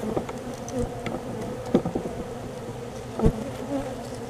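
A disturbed honeybee colony buzzing steadily and densely as its comb is opened up during a cut-out. Two short, sharp knocks come about two and three seconds in.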